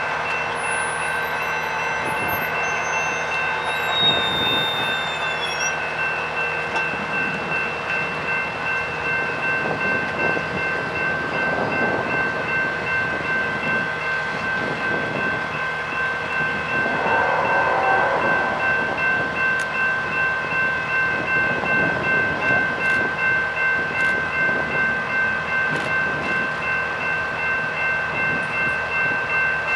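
Railroad grade-crossing warning bell ringing steadily. Beneath it a train's wheels rumble and clack on the rails, growing louder about halfway through.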